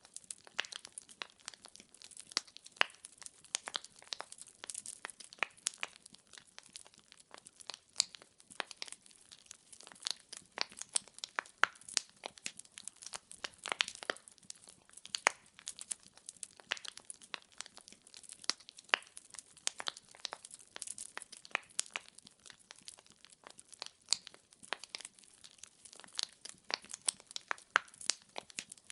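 Wood fire burning in a fireplace: a dense, irregular crackle of small sharp pops, with a faint hiss beneath.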